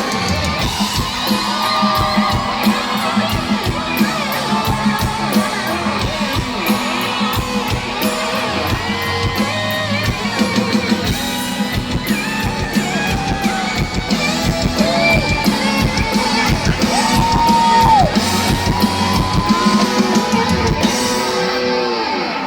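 Live band playing loudly through a PA: electric guitar lines with bent, sliding notes over a steady drum beat, with shouts and whoops from the crowd.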